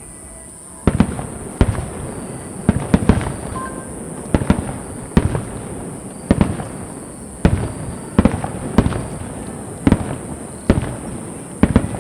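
Aerial firework shells bursting in rapid succession: a string of sharp booms, roughly one or two a second and sometimes in quick pairs, each trailing a short echo.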